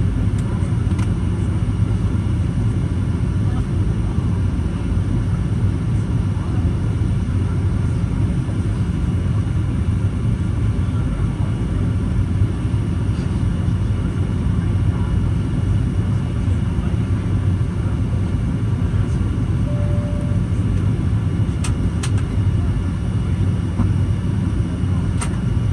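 Steady engine and airflow noise heard from inside the passenger cabin of a Boeing 737-800 jetliner, with a few faint clicks.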